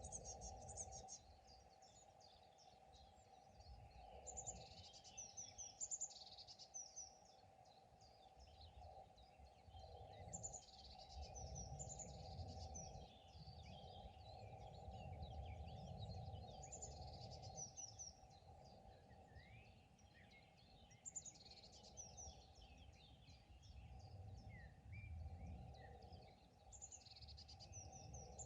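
Faint spring birdsong: several birds singing short, high, repeated chirping phrases every few seconds, over a low rumble of outdoor background noise.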